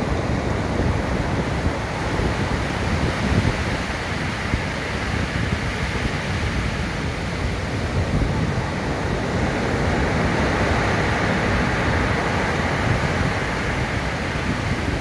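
Stormy sea surf breaking steadily on the shore, with strong wind buffeting the microphone.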